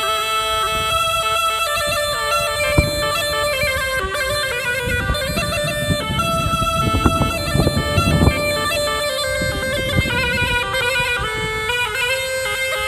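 Black Sea tulum bagpipe playing a folk melody over steady held tones, with low thuds in the middle.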